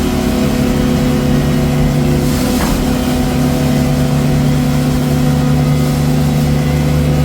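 Tractor diesel engine running loud and steady, its speed holding constant.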